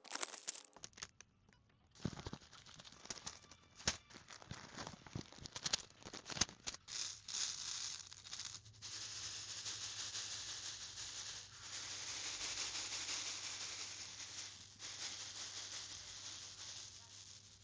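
Small resin diamond-painting drills clicking and rattling in a plastic tray. Scattered sharp clicks come first, then about eight seconds of dense continuous rattling that fades near the end.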